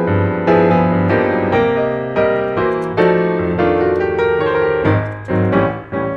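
Background piano music, a gentle piece of struck notes and chords at a moderate tempo.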